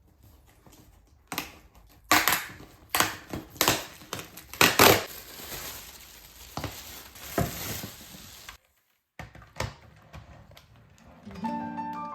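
Irregular crunching and crinkling noises, several sharp and loud, as of something being crushed or handled. They fall away near the end, where instrumental music comes back in.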